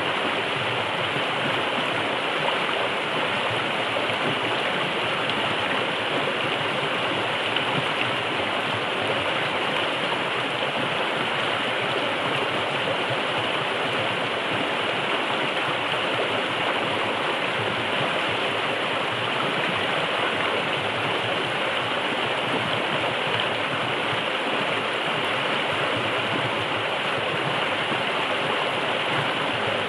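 A forest river flowing, a steady, unbroken rush of water.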